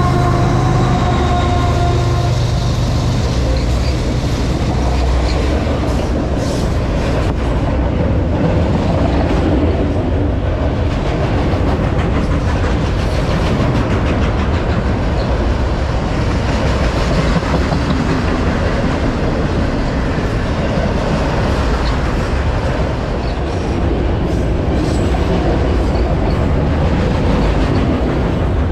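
Freight train of autorack cars rolling past at close range: a steady rumble and clatter of steel wheels on the rails. In the first couple of seconds the drone of a mid-train diesel locomotive's engine sounds as it goes by, then fades.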